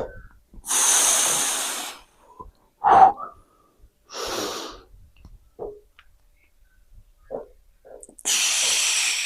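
A man breathing hard while lifting a dumbbell: long, forceful blowing exhales about a second in, around four seconds and near the end, with a short grunt about three seconds in.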